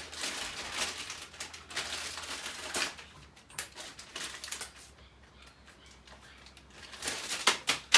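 Packaging rustling and crinkling, with scattered clicks and taps, as accessories are taken out of a new thickness planer's box. A few sharper knocks come near the end.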